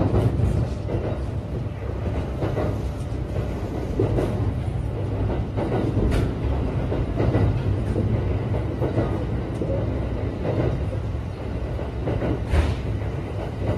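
Kintetsu 1253-series electric train running, heard from on board: a steady low rumble of wheels on rails, with a few sharp clicks along the way.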